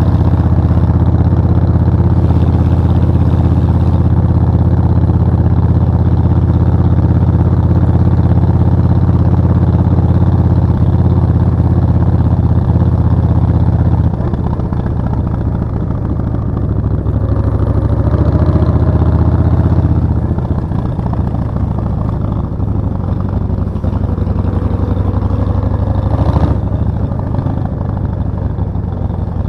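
Suzuki VS1400 Intruder's V-twin engine and exhaust running while riding. The engine pulls steadily, then the throttle eases off about halfway through, picks up briefly, and eases again. A short sharp knock comes near the end.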